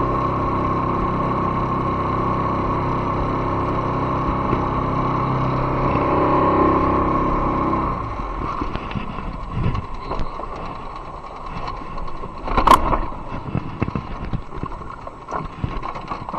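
Boat motor running steadily at low speed, then shut off about halfway through. Scattered knocks and clicks follow, with one loud knock near the three-quarter mark.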